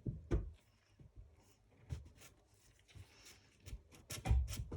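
Light clicks, taps and scraping of hand tools on a small nitro model engine as its tight carburettor is worked loose, with a few louder knocks about four seconds in.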